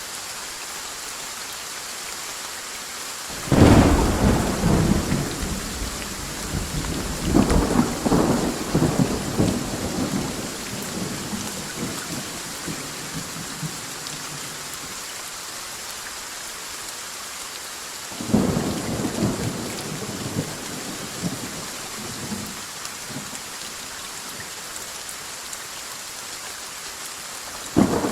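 Steady rain hissing, broken by thunder: a sudden clap a few seconds in that rolls and rumbles for several seconds with a second swell, another peal past the middle that rumbles off, and a third starting at the very end.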